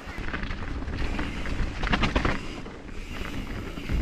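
Mountain bike rolling down a dirt trail: tyre noise and frame and drivetrain rattle over bumps, with wind buffeting the action-camera microphone.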